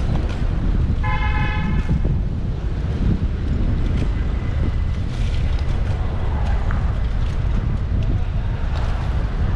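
Steady wind rumble on a bike-mounted action camera's microphone, with road and traffic noise, while riding a bicycle through city streets. About a second in, a vehicle horn sounds once for about a second.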